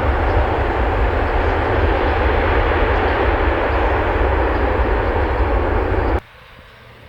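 Jet airliner engines passing close by: a loud, steady rush of noise over a deep rumble that cuts off suddenly about six seconds in.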